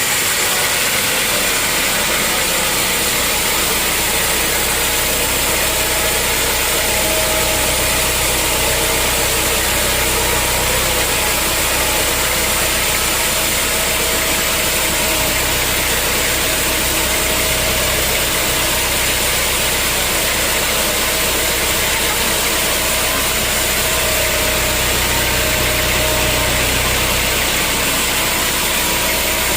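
Sawmill machinery running steadily: a continuous engine-like hum under a dense, even mechanical hiss.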